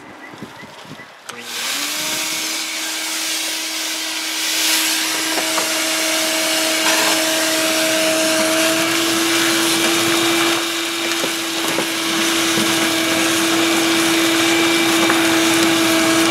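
A 16-gallon shop vac switched on about a second and a half in. Its motor spins up to a steady whine and keeps running as it sucks up loose soil from around buried sprinkler lines, with a few brief rattles of debris going through the hose.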